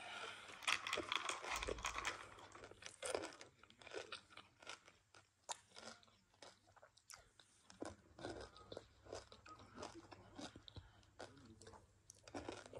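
Rapid chewing of a mouthful of M&M's, the hard candy shells crunching in quick, irregular crackles. The crunching is densest in the first few seconds.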